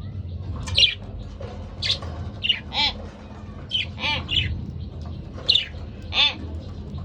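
Budgerigars calling: short, separate chirps and squawks, about eight in all, spaced unevenly with gaps between them.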